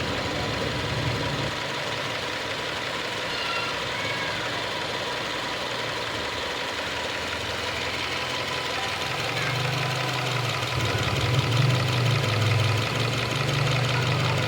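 Subaru XV Crosstrek's FB20 2.0-litre boxer four-cylinder engine running steadily. Its low hum grows louder about two-thirds of the way through.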